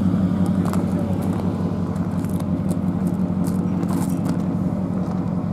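A car engine running at a steady idle, a constant low hum, with faint crunching of footsteps on gravel over it.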